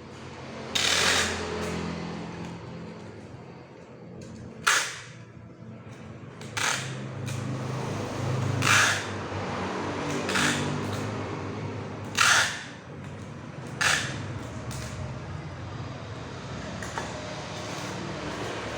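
Pneumatic nail gun firing into a wooden packing crate: about seven sharp shots with a short burst of air each, one to two seconds apart, over a steady motor hum.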